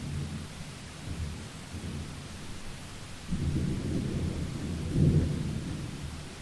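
Steady rain with low rolling thunder; the rumble swells about three seconds in, peaks about five seconds in, then fades.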